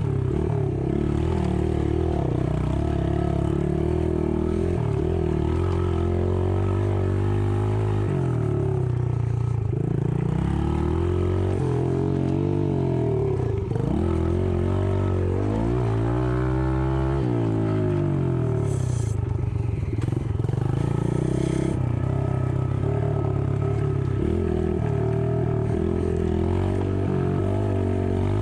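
Yamaha TT-R110 dirt bike's small single-cylinder four-stroke engine being ridden, its revs rising and falling with the throttle over a few seconds at a time.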